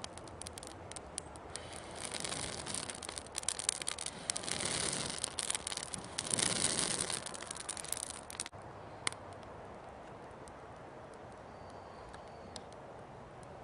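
Wood campfire crackling and popping over a rising and falling hiss, the crackle swelling twice, then cutting off suddenly after about eight seconds to a quiet outdoor background.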